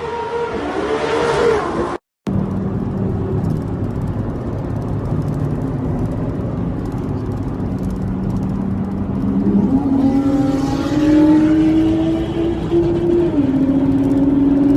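Exotic sports car engine and exhaust revving for a couple of seconds; after a brief cut, an engine runs at a steady lower note. It then climbs to higher revs about ten seconds in, holds there, and eases back down a few seconds later.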